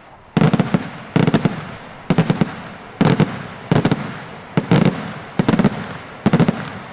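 Daytime fireworks display going off in a rapid sequence: about eight volleys, each a quick cluster of several sharp bangs, one volley every second or less, each trailing off in an echo.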